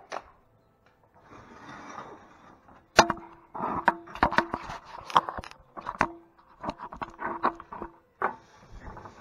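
Irregular sharp metallic clanks and taps from tools and parts being handled on the winch, several leaving a brief ring; they start about three seconds in, after a soft hiss.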